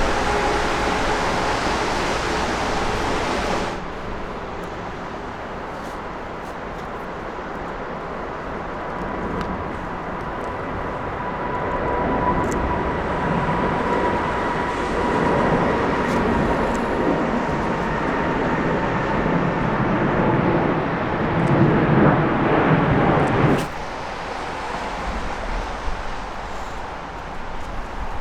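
Jet airliner engines passing close by: a steady engine rush with a whine stops suddenly a few seconds in, then another jet's whine and rush build up, grow loudest near the end and cut off abruptly.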